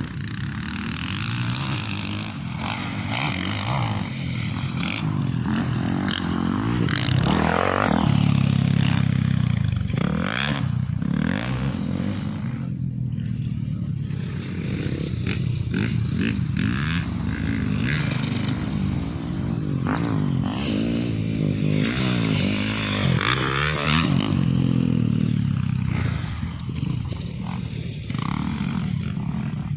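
Motorcycle engine being ridden, its pitch rising and falling repeatedly with changes of throttle, with rattling and scraping over the whole stretch.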